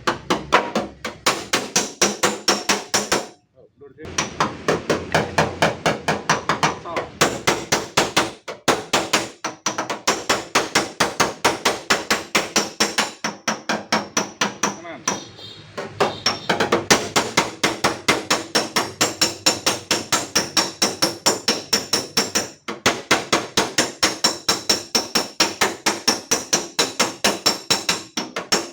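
Rapid hammering on the dented sheet-metal tailgate of a Daihatsu Xenia, about four sharp, ringing taps a second as the dent is beaten out, with short pauses about three and a half seconds in and again near the end.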